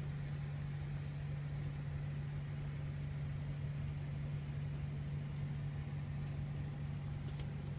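Cummins N14 diesel engine of a Kenworth W900 highway tractor idling, a steady low hum.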